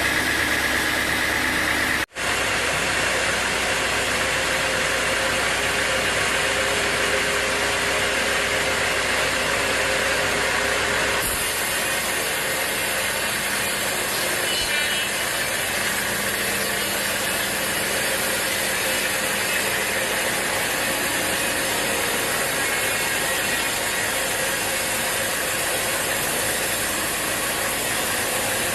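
Sawmill saw running, a steady, dense mechanical noise, with a brief drop-out about two seconds in and a slight change in tone about eleven seconds in.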